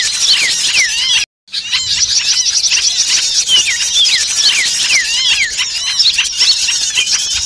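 A dense, noisy chorus of many small songbirds calling at once, with rapid high trills and repeated falling whistles: a bird-lure recording made to draw small birds in. The sound cuts out completely for a moment about a second and a half in.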